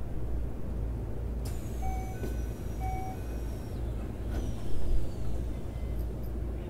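Cabin sound of a Keikyu New 1000-series (1800 subseries) electric train: a steady low rumble, with two faint high whines that slide down in pitch and a few short beeps about two to three seconds in.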